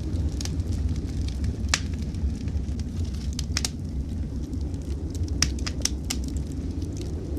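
Wood fire in a fireplace crackling, with irregular sharp pops, several in quick succession past the middle, over a steady low rumble.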